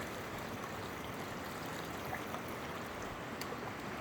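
Steady flow of running water.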